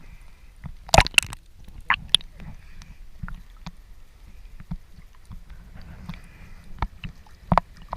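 Water sloshing and gurgling against a small boat, with scattered sharp knocks and clicks; the loudest knock comes about a second in, another near the end.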